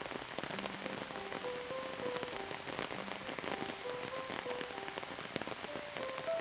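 Steady rain with many distinct drops striking a surface. A slow, quiet melody of held notes plays underneath.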